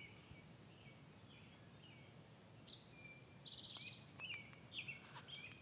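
Songbirds calling over a quiet outdoor background: scattered short high chirps, and two fast trills about three seconds in, the second the longer and louder. A few faint clicks follow shortly after.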